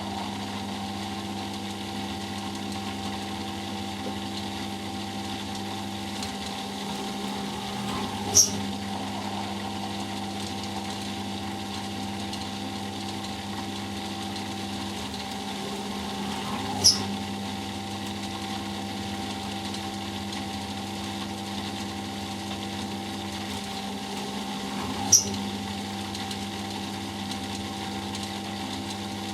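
Eudora Sparmeister 702 Classic washing machine in its final spin, running with a steady motor hum. A sharp click comes about every eight seconds, three times in all.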